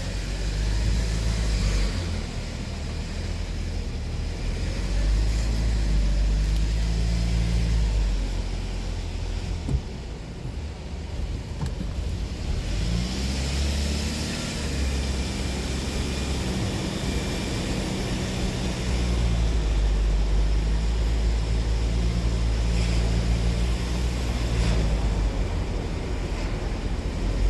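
Car engine and road noise while driving, the engine note rising and falling several times as the car speeds up and slows.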